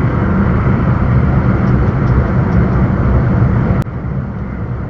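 Steady engine and road noise of a heavy truck heard inside the cab. A sharp click comes near the end, after which the noise drops to a lower level.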